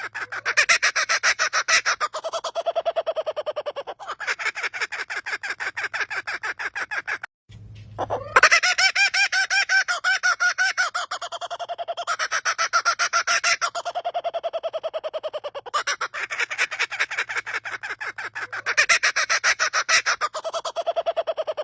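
A bird's call that sounds like human laughter: a rapid string of staccato notes running in long phrases that swell and fade, with a short break about seven seconds in before a new phrase begins.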